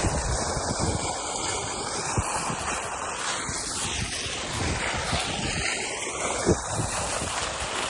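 Water fountain splashing, a steady rushing noise, with irregular low thumps of wind buffeting the microphone.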